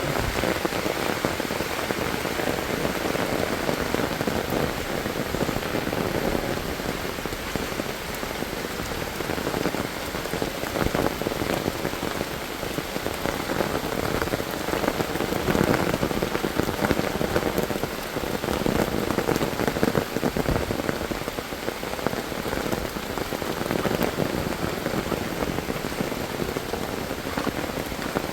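Steady monsoon rain falling, a dense, even patter of many drops on surfaces.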